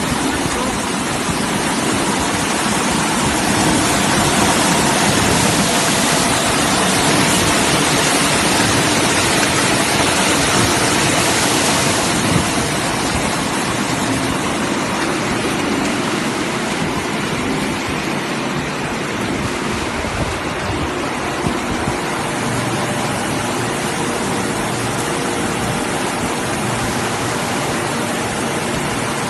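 Fruit and vegetable washing machine running, with a steady rush of splashing water over the hum of its machinery.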